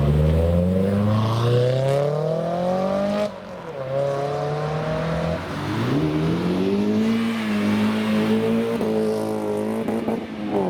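Car engine accelerating hard, its pitch climbing, then falling sharply at a gear change about three seconds in. It climbs again, dips at a second shift around five to six seconds, then rises and holds fairly steady near the end.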